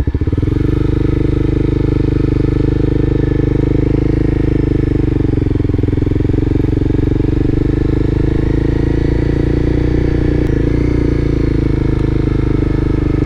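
Car engine and exhaust droning steadily while driving at low town speed. Right at the start it picks up and gets louder, then holds an even note.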